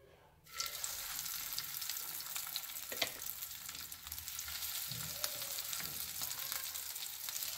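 Breadcrumb-coated vegetable kababs sizzling as they shallow-fry in a little hot oil in a nonstick pan, with a steady hiss and many small crackles. The sizzle starts about half a second in, as the first kabab goes into the oil.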